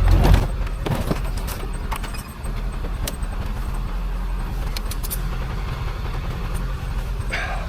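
A vehicle engine idling with a steady low hum, with scattered metal clinks and knocks of scrap being shifted.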